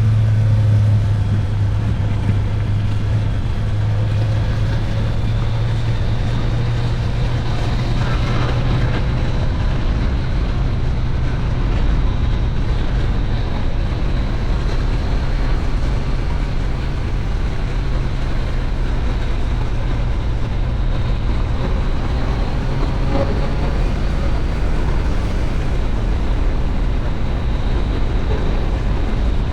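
A steady engine drone with heavy wind rush across the microphone. A strong low hum under it fades out about halfway through.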